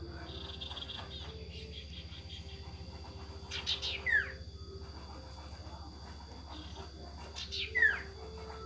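A sirtu bird calling twice, about four seconds apart. Each call is a quick run of descending whistles that is loudest at its end. A steady hum and faint high tones run underneath.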